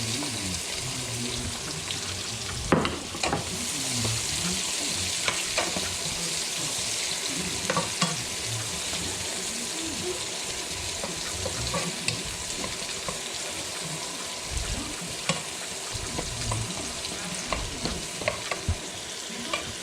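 Garlic and onion sizzling in hot oil in a frying pan, with a steady hiss and scattered clicks and knocks of a utensil against the pan as they are stirred.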